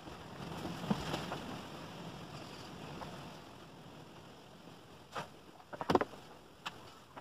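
Rustling handling noise with a few sharp knocks near the end, the loudest cluster about six seconds in.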